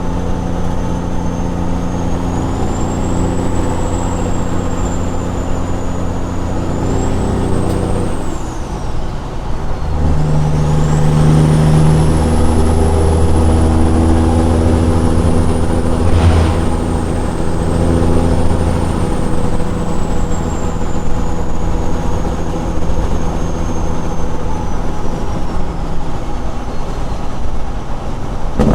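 Straight-piped Caterpillar 6NZ diesel in a semi truck running down the road, with a high turbo whistle above the exhaust note. About eight seconds in the engine note dips briefly, then comes back louder and deeper as the whistle rises.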